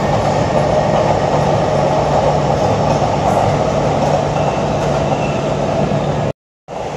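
Electric commuter train running at the platform: a steady rumble of wheels and running noise with a low motor hum. The sound cuts out abruptly for a moment near the end.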